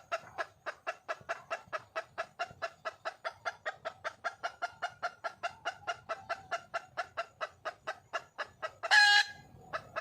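Red junglefowl hen clucking in a fast, even series of about five clucks a second, the call a wild hen gives for a mate. About nine seconds in comes one brief, much louder squawk.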